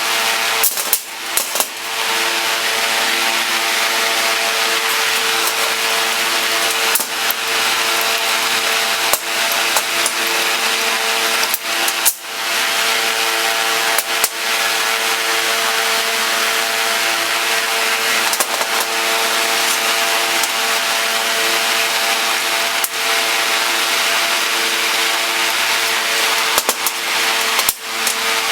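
A power tool running steadily with a constant motor hum, broken by a few brief sharp dips.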